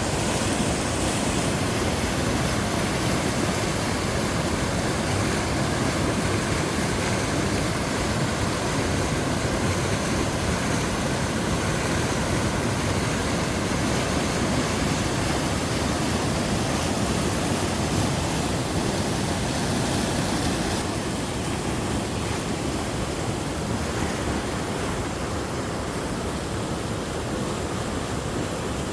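A small mountain waterfall pouring steadily into a valley stream, a full, even rush of falling water. About two-thirds of the way through it becomes slightly quieter and less bright.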